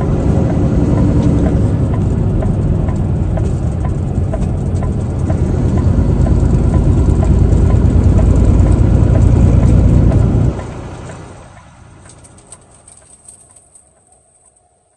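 Truck engine and road noise, a loud steady low rumble with a light regular ticking. About ten seconds in it drops off suddenly, and the rest dies away to near quiet.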